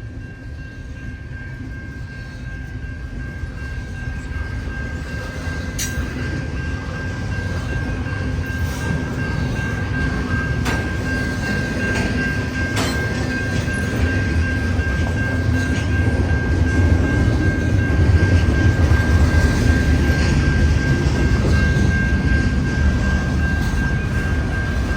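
CN freight train passing: a low rumble that grows louder over the first 17 seconds or so and then holds, with a steady high-pitched tone over it and a few sharp clicks of wheels over rail joints.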